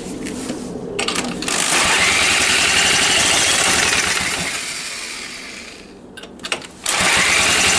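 Electric starter cranking an old engine primed with petrol through the plug hole, with a rising whine as it spins up, winding down about six seconds in, then cranking again about a second later; the engine catches with a couple of brief firings, the first time it has fired in years.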